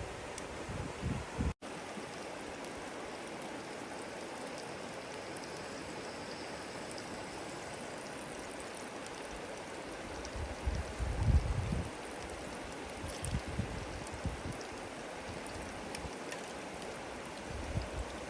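Steady rushing of flowing water, an even wash of sound. Low rumbles of wind on the microphone come in near the start and again about two-thirds of the way through.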